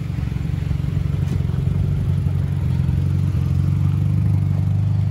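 Mitsubishi Lancer Evolution X MR's turbocharged four-cylinder engine idling steadily.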